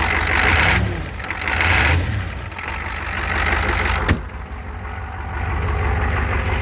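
1988 Ford IDI diesel engine idling just after a cold start on starting fluid, the throttle blipped twice in the first two seconds, then settling back to a steady idle. A single sharp click about four seconds in.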